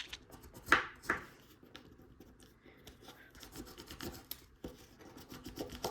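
Folded A4 paper being creased by hand: two sharp rubbing strokes along the fold about a second in, then faint rustling of the paper.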